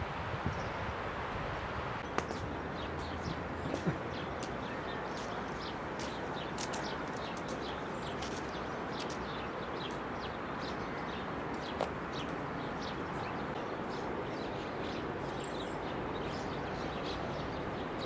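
Small birds chirping rapidly and repeatedly over a steady outdoor hiss, with a few brief knocks in the first few seconds.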